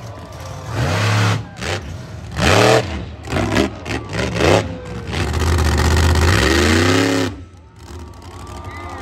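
Monster truck engine revving in a string of short blips, then held at high revs for about two seconds before dropping off sharply.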